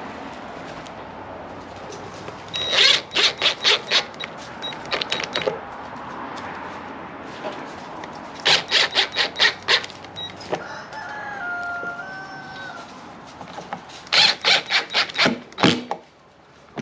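Several bursts of rapid clicking, each about a second long, as screws are driven into the deer feeder's sheet-metal control unit. A rooster crows once in the middle.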